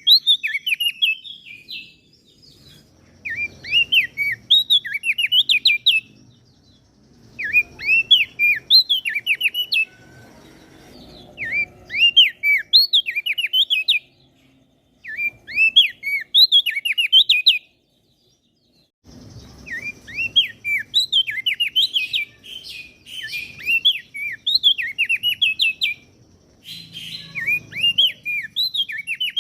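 A small songbird singing in repeated phrases of rapid, sharply slurred chirping notes. Each phrase lasts two to three seconds with short pauses between, and there is a longer unbroken run in the second half.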